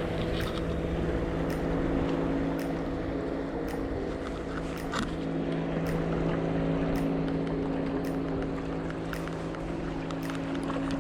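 Motorboat engine running steadily, a constant even drone, with faint sharp ticks about once a second over it.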